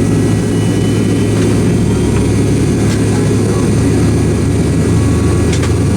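Steady low hum and drone of an MD-88 airliner heard from inside the passenger cabin on the ground before takeoff, with a couple of faint clicks near the end.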